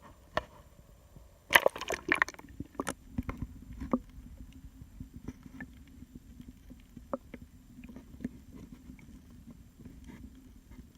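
Water sloshing against a small jon boat, with a loud clatter about a second and a half in and scattered light knocks and clicks afterwards, over a low steady hum.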